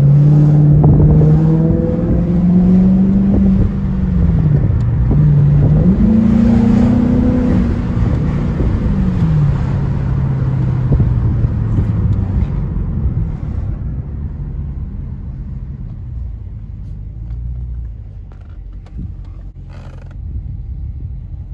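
Dodge Charger R/T's 5.7-litre Hemi V8 pulling under throttle. The engine note climbs, drops back about four seconds in, climbs again, then settles and fades away after about thirteen seconds.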